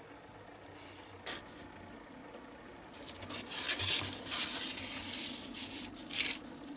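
Hand work on a small diecast model part: a sharp click about a second in, then several seconds of uneven scraping and rubbing strokes.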